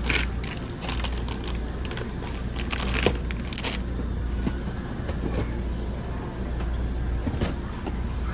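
Shopping cart rolling over a hard store floor with a steady low rattle of its wheels, and a few sharp knocks and clatters of goods in the basket.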